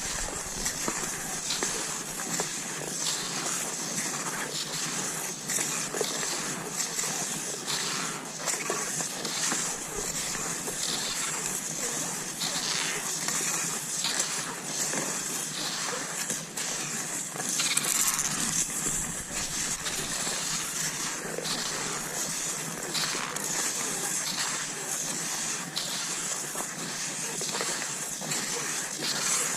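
Cross-country skis swishing and crunching over snow in a steady stride rhythm, about one stroke a second.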